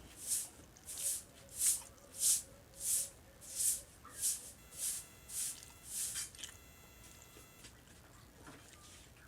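Close-miked chewing and mouth smacking, a steady rhythm of about one and a half chews a second, eating paksiw na bangus. The chewing stops about six seconds in, followed by a faint, brief ringing tone.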